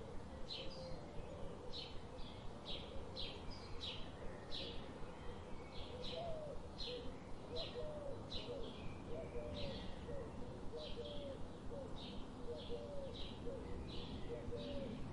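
A bird chirping over and over, about two short high chirps a second, with softer warbling calls lower down.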